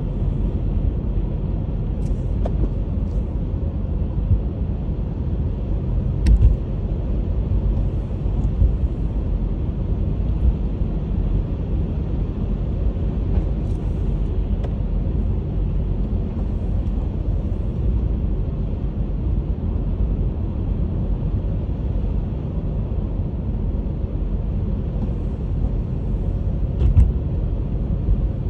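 Honda HR-V driving through snow: a steady low rumble of tyres and engine, with a few brief clicks and thumps.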